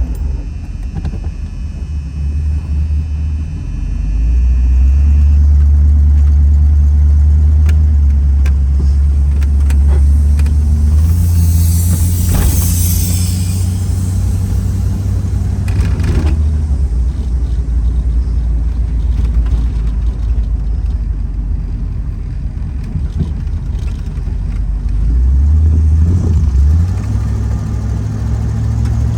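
Ford Mustang engine running just after a cold start, with a steady low exhaust rumble. The idle steps up about four seconds in and shifts again near the end. A brief loud hiss comes about twelve seconds in.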